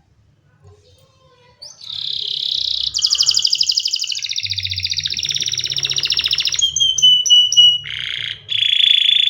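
Domestic canary singing. After a moment of quiet it gives a short buzzy phrase, then a long, fast, high trill lasting about three and a half seconds, three quick down-slurred whistles, and two buzzy rolls near the end.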